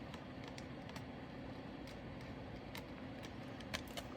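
Light, scattered clicks and taps of a diamond-painting drill pen picking up and pressing small resin drills onto the canvas, a few sharper clicks near the end.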